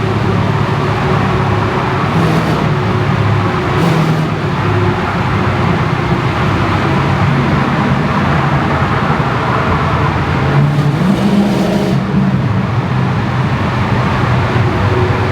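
Mercedes-Benz 560 SEC's M117 V8 engine running under way, its note rising and falling with the throttle.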